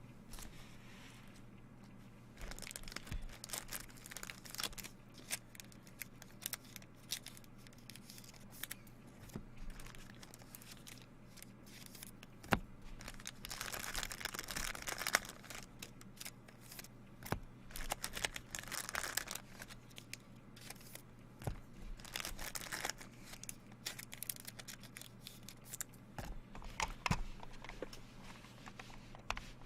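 Trading card packs and wrappers being handled and torn open: crinkling, tearing and scattered clicks and taps, with a longer stretch of tearing about halfway through. A steady low hum runs underneath.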